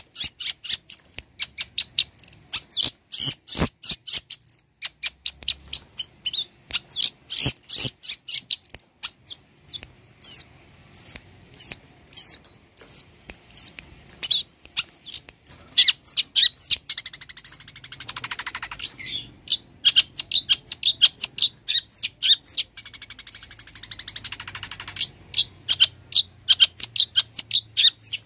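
Long-tailed shrike (cendet) singing a fast, varied song of short, sharp chattering notes that mixes in mimicked calls of other birds, broken twice by harsh, buzzy rasping passages.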